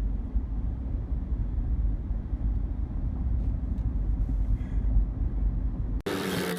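Steady low rumble of a moving vehicle, with no distinct events, cutting off abruptly about six seconds in.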